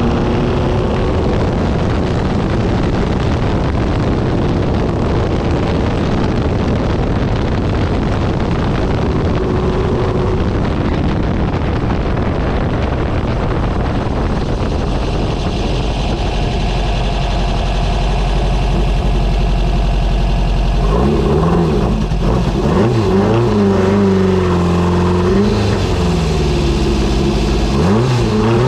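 Straight-piped, built 1.7-litre air-cooled flat-four of a 1970 Porsche 914 race car running under way, heard from the open cockpit over a steady rush of wind and road noise. In the last third the engine note rises and falls again and again as the revs climb and drop through shifts and throttle changes.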